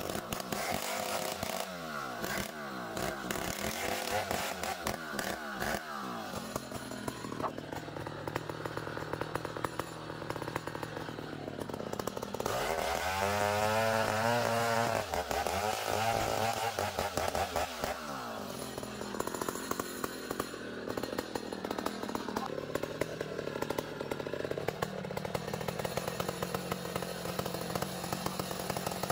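A sawmill cutting through a long ironwood log, running continuously. Its motor pitch sags and recovers as the blade takes the cut, with the heaviest, loudest stretch about halfway through.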